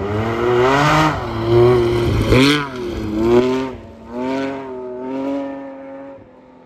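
Rally car engine accelerating hard at high revs, the pitch climbing and dropping with each gear change, loudest around two seconds in, then fading away to a faint distant drone near the end.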